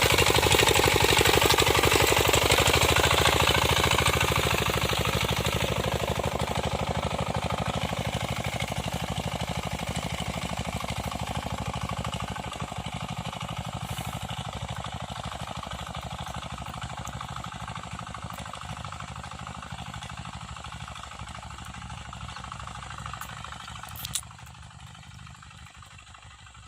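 Small home-built tractor's engine running with a rapid even chugging as it works a field cultivator, fading steadily as it moves away.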